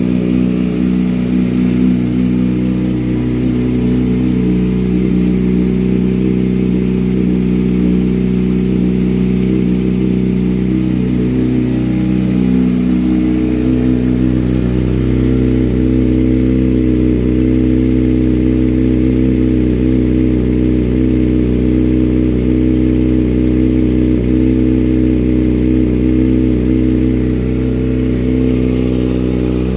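Kawasaki Ninja ZX-6R inline-four idling steadily through an M4 GP19 slip-on exhaust while warming up after a cold start, its pitch shifting slightly about halfway through.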